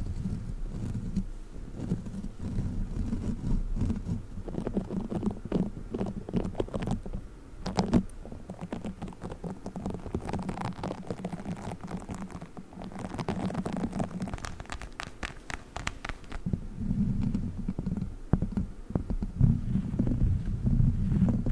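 Close-microphone ASMR trigger sounds: soft sticky and squishy toys pressed, rubbed and squished against the microphone, giving a low rumbling with many small crackles and clicks, loudest around eight seconds in and near the end.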